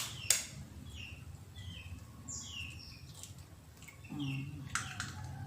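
Small birds chirping: a string of short, high chirps that fall in pitch, with a few sharp knocks in between.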